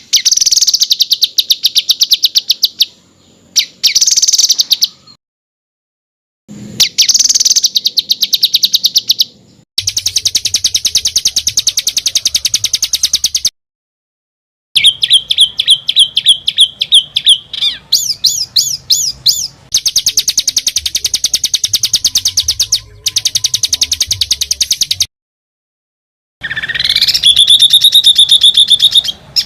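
Songbird song in several separate phrases of fast, tightly packed rolling trills and rapid repeated notes, with one rising whistle near the end. Short gaps of dead silence between the phrases, where the recording is cut and spliced.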